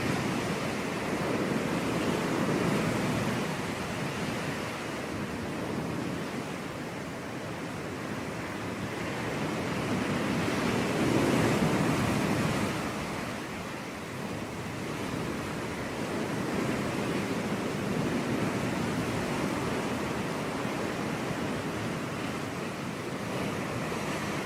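Sea waves breaking and washing on a beach, a steady surf noise that swells and ebbs, with one larger wave building about ten seconds in.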